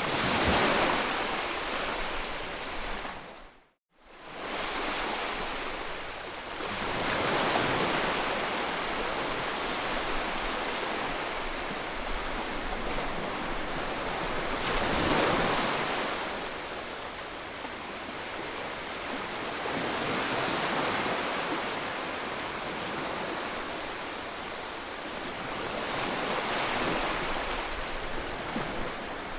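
Sea waves breaking and washing on a shore, swelling about every six to seven seconds. The sound cuts out briefly just under four seconds in.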